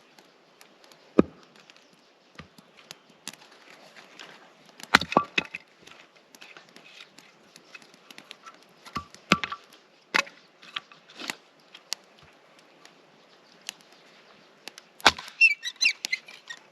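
Firewood being split into kindling: sharp wooden knocks and cracks from a series of strikes a few seconds apart, with a burst of splintering crackle near the end.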